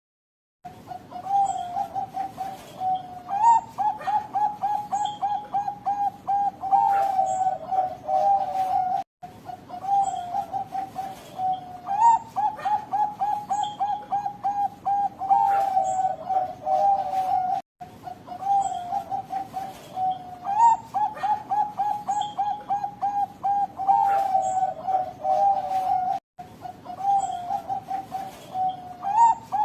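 Zebra dove (Bangkok-strain perkutut) singing: repeated phrases of quick rolling coo notes, each running on into a long, drawn-out ending. The song cuts out to silence very briefly three times.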